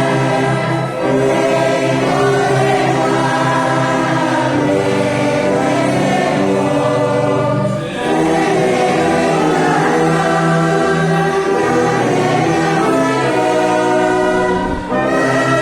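Congregation singing a hymn in sustained chords with orchestral accompaniment, breaking briefly between phrases about a second, eight seconds and fifteen seconds in.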